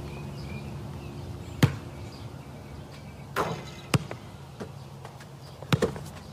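A few sharp, separate knocks at uneven spacing over a low steady hum: one about one and a half seconds in, two close together past the middle, and a quick pair near the end.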